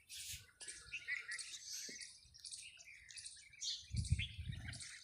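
Many small birds chirping and twittering in quick, short high notes that overlap one another. A brief low rumble comes in about four seconds in.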